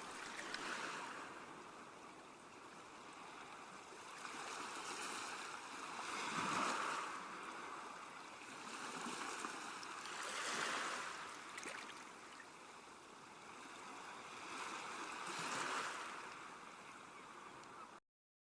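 Faint ocean waves washing in and drawing back, swelling about every four to five seconds. The sound cuts off suddenly near the end.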